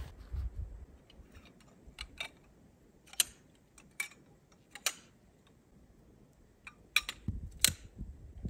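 A handful of short, sharp clicks or snaps at irregular intervals, the loudest two close together about seven seconds in, with a low rumble at the start and again near the end.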